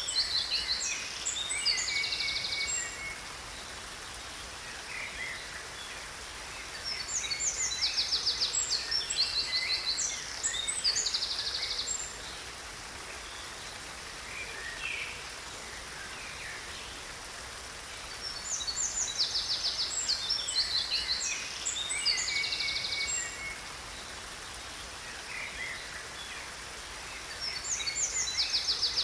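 Songbirds singing in bouts of high, rapid trills and chirps that come back about every twelve seconds, over a steady rush of falling water from a waterfall.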